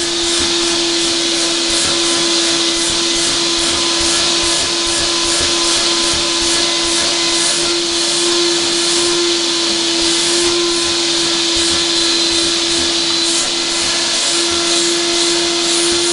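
Vacuum cleaner running steadily: an even rush of air under a constant motor whine.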